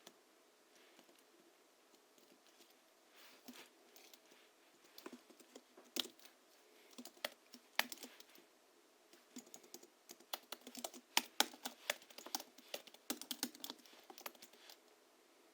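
Typing on a Hansung GHL-5X keyboard whose springs are lubricated with Krytox and fitted with 50 g rubber domes: a few scattered keystrokes at first, then quick runs of key clicks, thickest about two-thirds of the way through.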